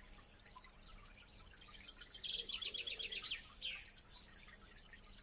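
Small songbirds singing outdoors: scattered chirps, with a fast trill of about ten quick notes a couple of seconds in.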